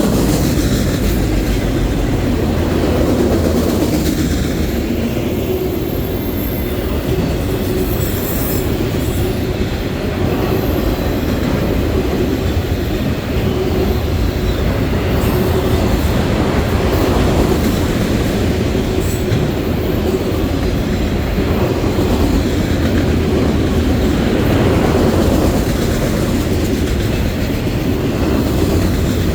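Norfolk Southern freight train rolling past on the rails: a steady, loud rumble of wheels on track with a clickety-clack rhythm.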